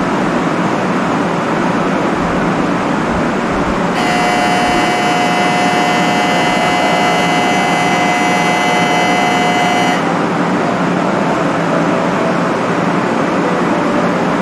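Steady running noise of a Shinkansen 500 series train, heard inside the carriage. For about six seconds in the middle, a steady high whine made of several flat tones joins the rumble, then cuts off abruptly.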